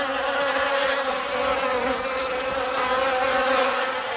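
Bees buzzing in a steady, droning hum that wavers slightly in pitch.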